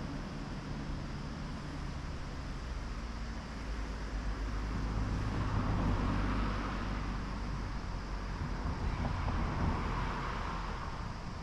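Road traffic: a vehicle's low engine hum and tyre hiss, swelling twice as vehicles pass by.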